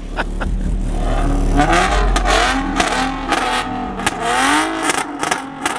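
A car engine revving, its pitch climbing and falling back a couple of times over a steady low rumble.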